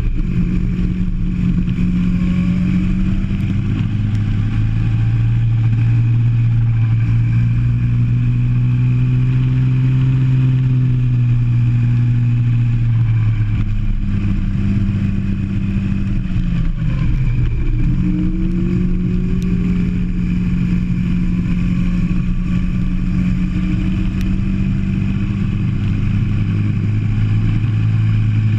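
Go-kart engine heard onboard, running hard with the revs climbing slowly, dropping sharply about two-thirds of the way through as the kart slows for a corner, then rising again as it accelerates away.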